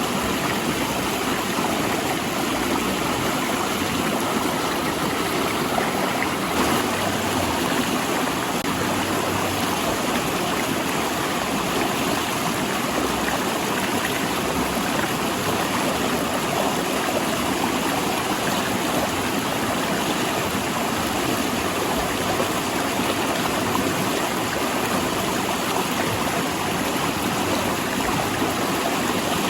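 Mountain river rushing steadily between large rocks, an even, unbroken wash of water noise.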